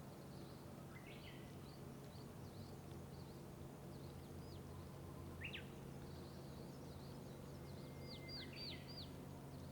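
Several small wild birds chirping and calling faintly, with many short high downward-swept notes and a quick run of four brighter notes near the end. A steady low rumble of road traffic runs underneath.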